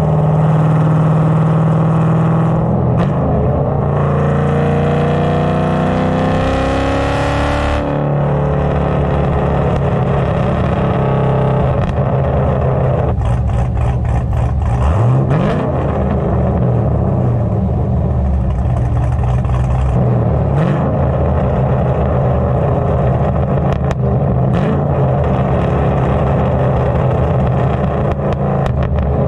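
Cammed 2011 Camaro's 6.2 L LS3 V8 running through a straight-piped exhaust with the mufflers deleted. The revs climb for several seconds, drop suddenly about eight seconds in, then settle into steadier running with a couple of brief rises.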